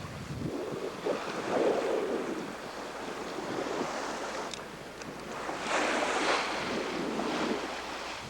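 Rough sea rushing and breaking along a sailboat's hull, with wind buffeting the microphone. Two louder surges of water come, about a second and a half in and again around six seconds in.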